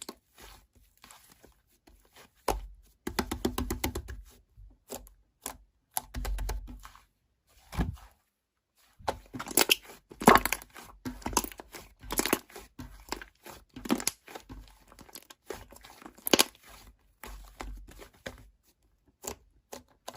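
Slime being squeezed and pressed by hand, giving irregular crackling, popping clicks with soft low squishes.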